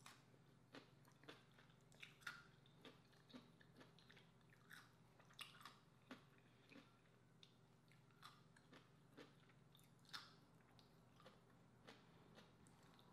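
Close-miked chewing of crisp cucumber slices: a run of irregular crunches and wet clicks, roughly two a second.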